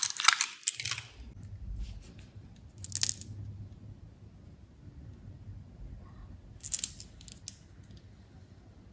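Candy wrappers crinkling and crackling for about a second, then a few scattered light clicks and taps as candies and packaging are handled.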